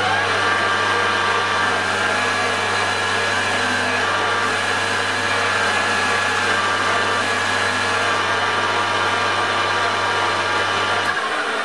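Metal lathe running steadily while cutting a chamfer on the corner of a turned stub axle: a steady motor hum with a constant whine above it. The low hum cuts off near the end as the lathe stops.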